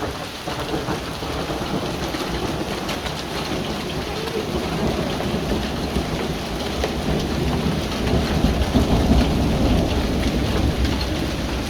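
Hail, pea-sized ice pellets, pelting down in a dense patter of small hits on hard surfaces. A low rumble swells and grows louder about eight seconds in.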